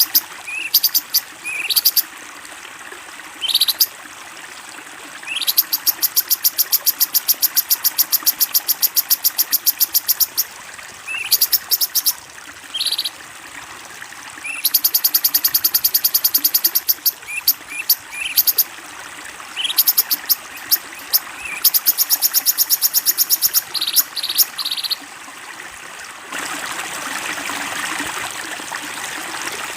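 Recorded wild-bird calls used as masteran, training audio for cage songbirds: several long, fast, high-pitched trills and short chirps. Flowing water starts near the end.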